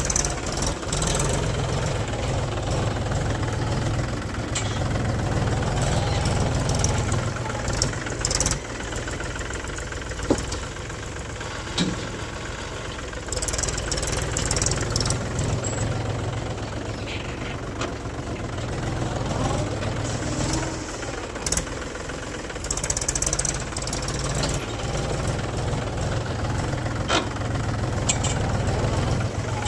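Mahindra tractor's diesel engine running with its front loader at work, the drone swelling and easing every few seconds as the load changes, with a few short sharp knocks.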